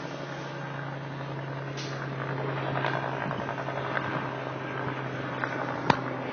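A truck fire burning with scattered crackles and pops over a steady low engine hum, with one sharp pop about six seconds in.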